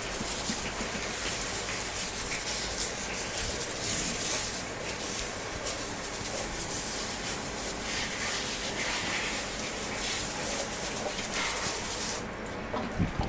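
Water hose spraying a horse down to rinse the sweat off, a steady hiss that stops near the end.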